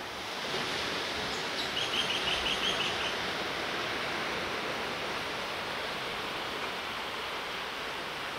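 A steady rushing hiss of outdoor ambience. About two seconds in, a bird calls a quick run of about seven short, high notes.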